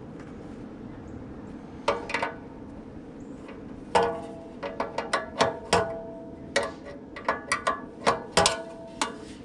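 Irregular metallic clicks and clinks with a brief ring as hand tools work on a condenser fan's blade hub and set screw, trying to free the blade from the seized motor's shaft. A couple of clinks come about two seconds in, then a denser run of them from about four seconds.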